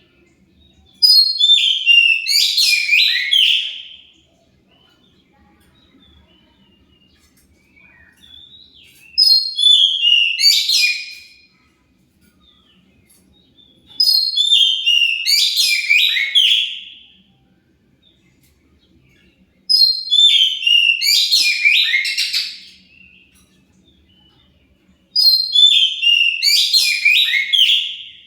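Oriental magpie-robin (kacer) singing in five loud phrases of about three seconds each, a new one every five to six seconds. Each phrase opens high and falls into a rapid run of warbled notes, and the gaps between are quiet.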